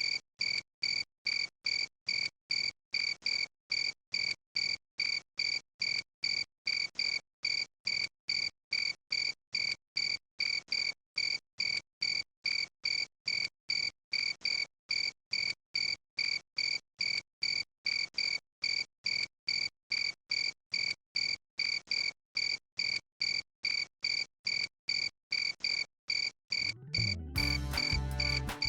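A cricket chirping steadily at an even pace, about two to three short chirps a second. Near the end a louder low rumbling noise joins in under the chirps.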